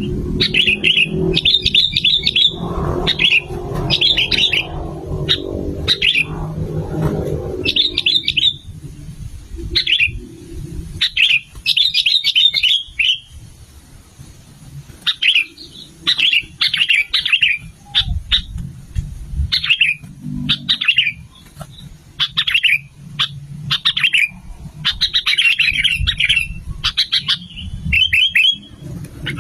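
Sooty-headed bulbuls calling lively: short, quick chirping phrases repeated over and over with brief gaps. A low hum runs underneath for roughly the first eight seconds.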